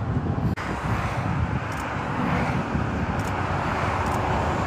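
Steady motorway traffic noise: tyres and engines of vehicles passing below. The sound cuts out for an instant about half a second in.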